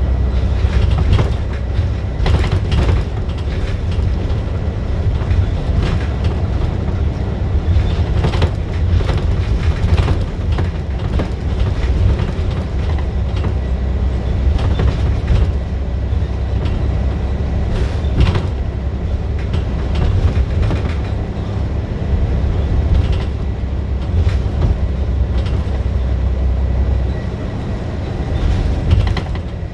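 Scania bus engine running under way: a loud, steady low rumble with frequent knocks and rattles. The rumble drops away a few seconds before the end as the engine eases off.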